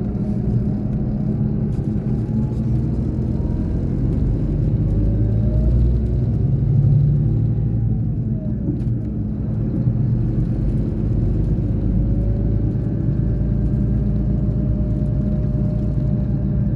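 Scania K420 bus diesel engine running under way, a steady low rumble. A fainter whine climbs over a few seconds and then drops about eight seconds in.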